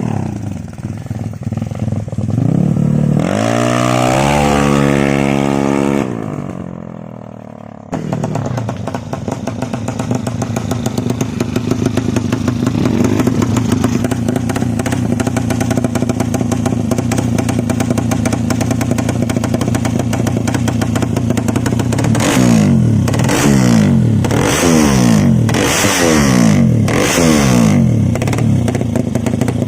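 Race-tuned Suzuki Satria FU single-cylinder motorcycle engine, ported and bored to 200 cc, revved up high and then let fall away. About eight seconds in it is running again at a steady, pulsing idle, and near the end the throttle is blipped five times in quick succession.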